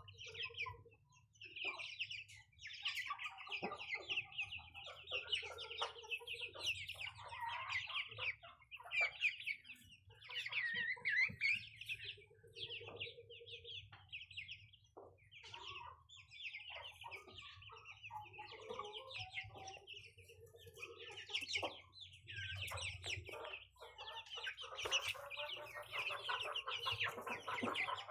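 Chicks peeping busily and continuously in rapid high chirps, with some lower clucking calls mixed in.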